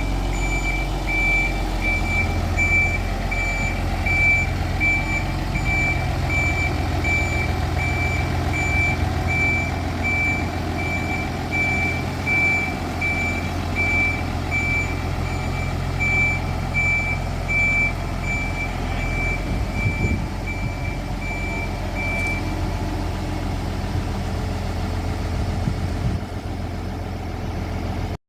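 Reversing alarm of a shunting vehicle beeping steadily at an even pace, over the low, steady running of its engine; the beeping stops about three-quarters of the way through.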